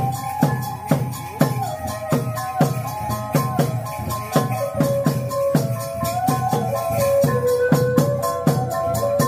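Khmer chhay-yam drum-dance music: a steady drumbeat of a little over two strokes a second with jingling percussion, under a held melody line that steps between notes.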